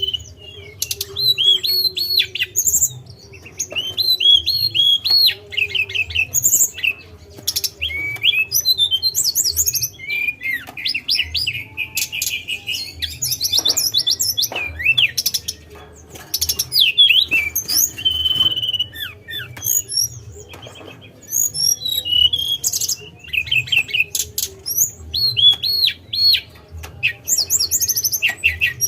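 Tledekan, a small flowerpecker, singing in rapid phrases of high chirps and trills, broken by short pauses. A faint low hum lies underneath.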